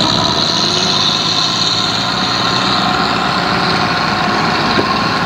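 Race car engine running steadily close by.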